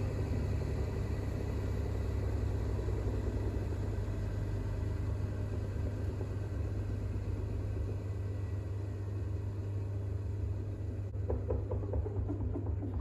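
Bosch WAX32GH1 washing machine's drum spinning in its 1200 rpm intermediate spin, a steady low hum. About eleven seconds in the higher whine fades and a few irregular knocks follow as the spin comes to its end.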